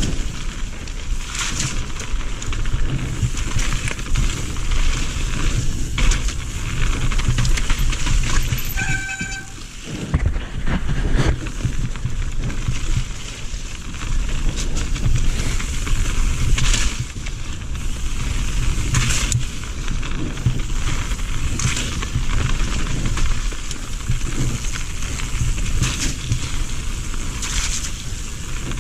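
Radon Swoop 170 mountain bike ridden over a dirt trail: steady tyre and drivetrain noise with the rattle and knocks of the bike over rough ground, and low wind rumble on the microphone. About nine seconds in there is a brief squeal.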